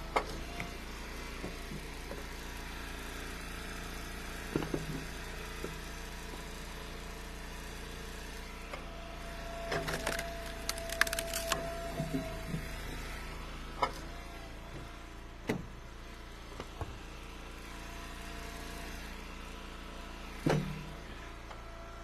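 Split ash firewood knocking and cracking as pieces are split and tossed, a scattered handful of sharp wooden knocks with a cluster about halfway through, over a steady low hum.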